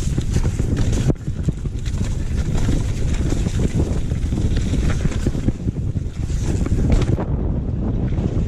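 Wind rushing over the microphone of a downhill mountain bike at speed, with constant rattling clicks and knocks from the bike over rough trail.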